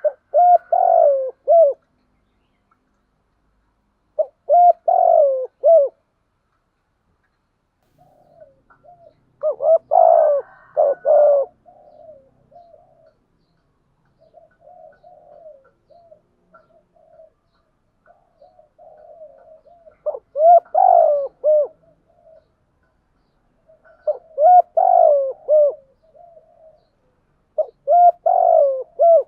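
Spotted doves cooing: loud phrases of three or four coos every few seconds, with softer, quieter cooing filling the stretch in the middle.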